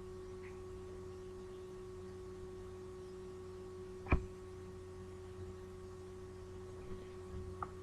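Low steady electrical hum from the recording setup, one constant tone with fainter lower hum beneath, and a single sharp click about four seconds in.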